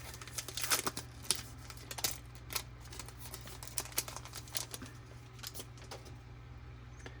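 Trading-card pack wrapper crinkling and crackling in the hands as it is opened, in quick sharp crackles that are thickest in the first couple of seconds and thin out toward the end.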